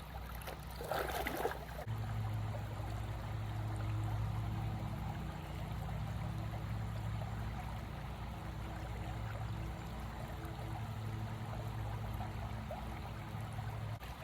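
Creek water running and trickling, under a steady low hum. There is a brief sharp noise about a second in.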